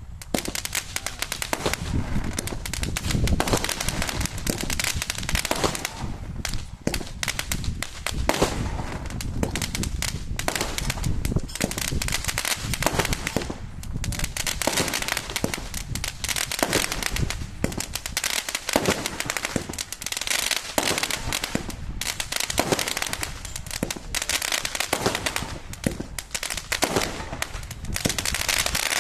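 Crackling firework going off continuously: a dense, unbroken stream of rapid sharp pops and snaps.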